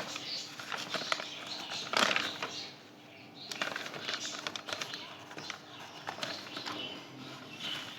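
A marker squeaking and scratching on a whiteboard in short irregular strokes as figures are written, with a louder stroke about two seconds in.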